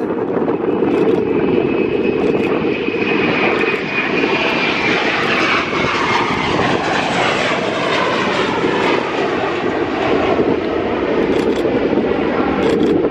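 Fixed-wing aircraft engine noise from an aircraft flying past, loud and steady, with a high whine that falls slightly in pitch about four to five seconds in.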